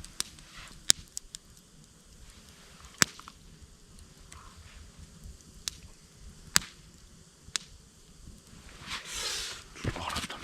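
Wood campfire crackling: a few sharp, isolated pops a second or more apart, with a short rustle about nine seconds in.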